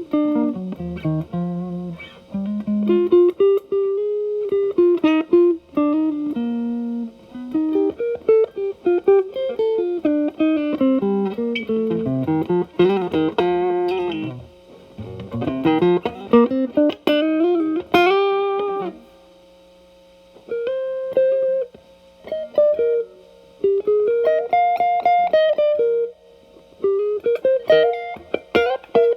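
Telecaster played through an E.W.S. Brute Drive distortion pedal, gain set around 10 to 11, into a Marshall Valvestate amp's clean channel. It plays single-note lead lines with quick runs and rising bends, breaks off briefly about two-thirds of the way through, then picks up again.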